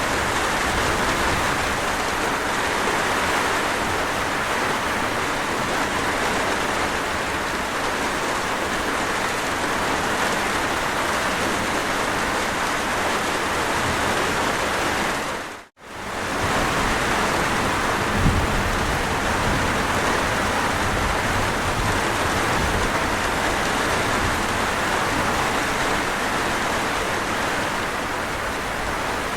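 Steady, dense rain falling. About halfway through it cuts out for a split second and comes straight back.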